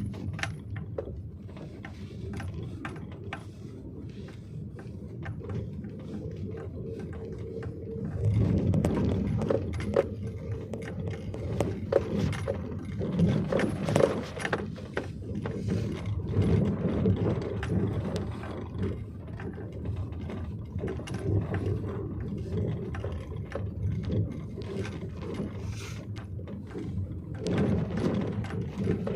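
Vehicle driving on a rough road: a steady low rumble with many clicks and rattles, busier and louder from about a third of the way in.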